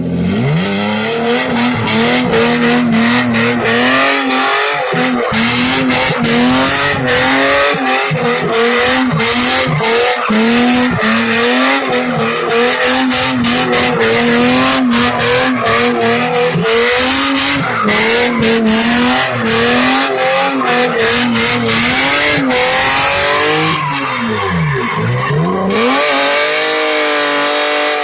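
A BMW E36 323i's 2.5-litre straight-six running with no exhaust, held at high revs with the pitch wavering as it spins its rear tyres, which squeal continuously. The revs drop sharply about 24 seconds in and climb back up.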